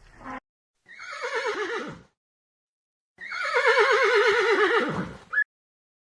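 Horse whinnying twice: a short whinny about a second in, then a longer, quavering whinny that falls away at the end.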